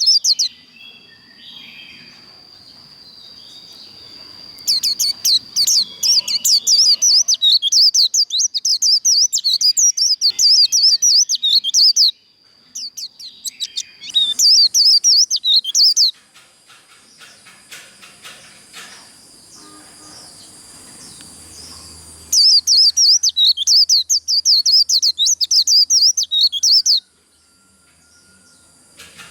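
White-eye (vành khuyên) singing its fast 'líu' song: runs of rapid, high twittering that last several seconds each, broken by short pauses.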